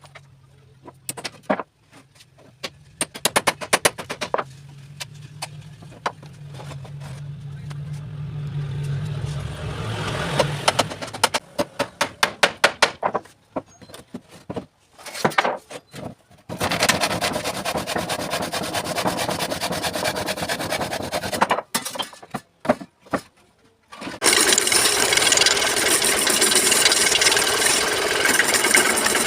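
Woodworking on timber: scattered knocks and quick runs of tapping, then long steady rasping stretches of a tool working wood. The loudest and steadiest stretch begins about five seconds before the end.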